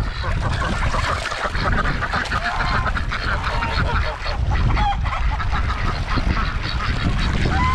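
Domestic geese honking, many calls overlapping in a dense, continuous chorus, with a steady low rumble underneath.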